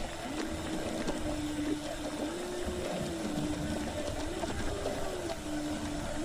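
Phone gimbal stabilizer's motors whining with a steady tone that bends up and down as they correct, over the rattle and rumble of a bicycle riding a rough forest path.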